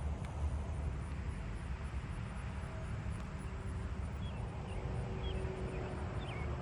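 Outdoor ambience: a steady low rumble, with a few faint, short, high wavering chirps from about four seconds in.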